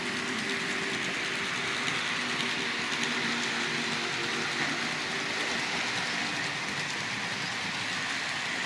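Life-Like HO scale GP30 model locomotives running on the track: a steady whir of their small electric motors and gears with the hiss of wheels rolling on the rails.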